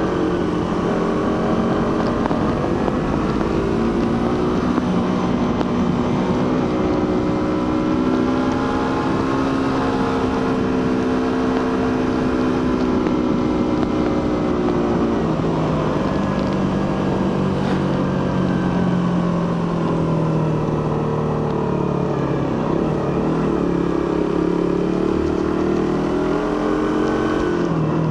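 Suzuki GSX-R150's single-cylinder engine and stock exhaust running under way, its pitch rising and falling with the throttle. About fifteen seconds in the pitch drops to a lower note, then climbs and eases again.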